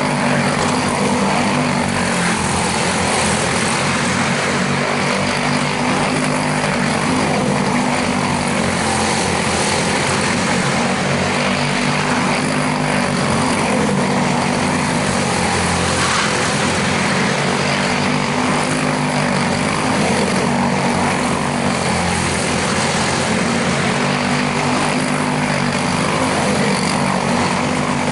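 Quarter midget race cars with single-cylinder Briggs & Stratton Animal engines running at racing speed, a steady buzzing engine drone that rises and falls slightly as the cars circle the track.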